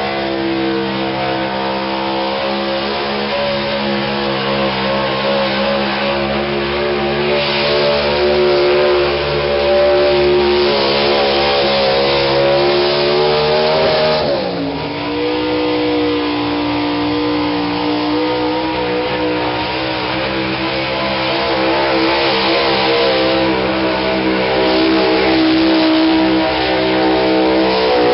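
Pulling truck's engine running hard at high revs under load. About halfway through the engine speed drops sharply, then picks up again and slowly climbs toward the end.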